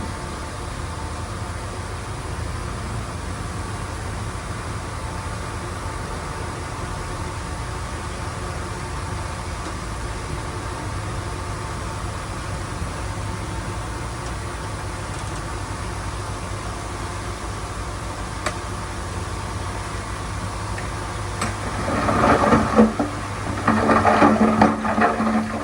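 Diesel engine of heavy earthmoving equipment running steadily at a constant speed. About 22 seconds in, a louder pulsing sound with several pitches comes in over it.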